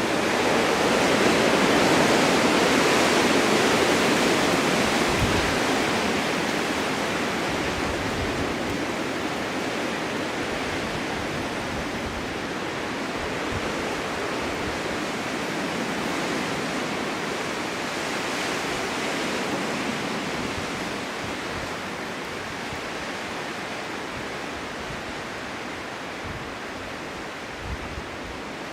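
Snowstorm wind blowing steadily, swelling in a gust over the first few seconds and then slowly easing off.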